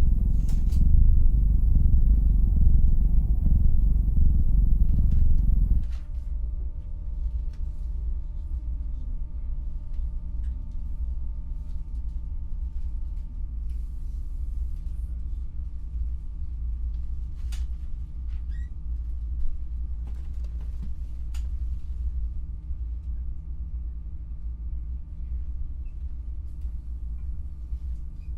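Passenger train interior: a loud rumble with a hiss above it that cuts off suddenly about six seconds in, leaving a steady low hum with a few faint steady tones, a short falling whine and scattered clicks.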